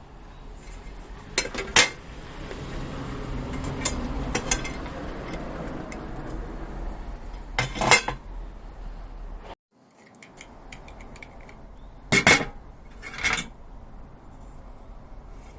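Metal parts of a campfire table clinking and knocking as they are handled and fitted, in a few separate clusters of sharp clinks.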